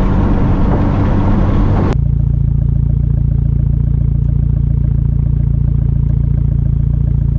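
Mitsubishi Lancer Evolution's turbocharged 4G63 four-cylinder with the muffler deleted, heard from inside the cabin while driving. A rough, busy engine and road sound changes abruptly about two seconds in to a steady, low exhaust drone at cruise.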